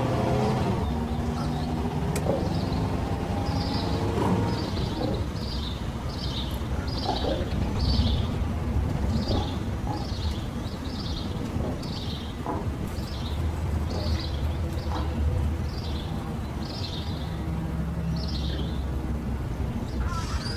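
A bird chirping over and over, short high chirps about two a second, starting a few seconds in and stopping near the end, over a steady low rumble.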